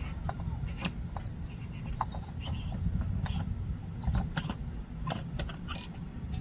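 Irregular light clinks, clicks and short scrapes of hand tools and oil-filter parts being handled, over a steady low rumble.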